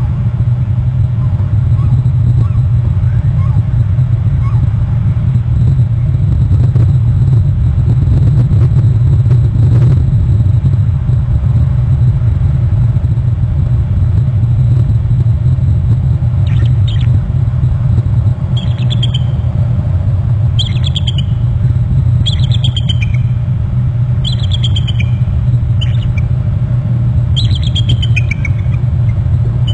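A steady low rumble, and from about halfway through a male bird calling: a series of short, falling chirps roughly every two seconds.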